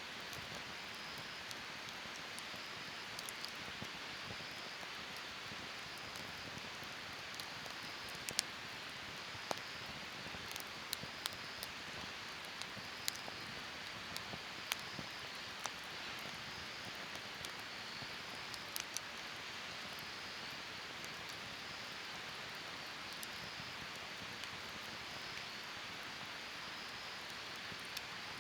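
Wood campfire burning with a steady hiss and irregular sharp crackles and pops, which come most often in the middle stretch.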